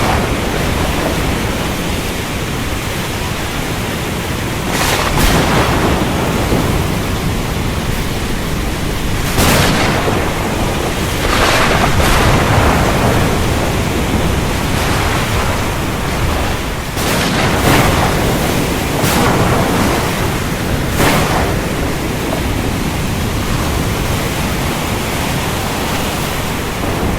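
Heavy rain pouring in a dense, steady hiss, broken by several sharp thunder cracks: one about five seconds in, others near ten and twelve seconds, and a cluster around seventeen to twenty-one seconds.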